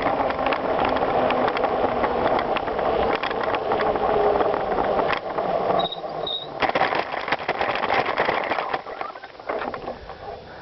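Bicycle riding over a gravel trail: tyres crunching and parts rattling with many rapid clicks. There is a brief lull a little past the middle with two short high chirps, then the rattling resumes and grows quieter near the end.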